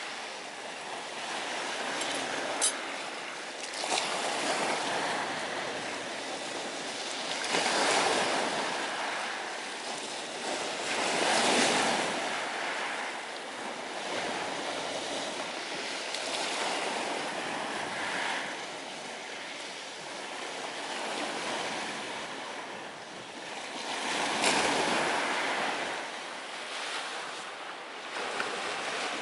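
Sea waves washing onto the shore, the rush swelling and falling back every few seconds. A few sharp crackles from a wood fire burning in a small folding stove stand out over it.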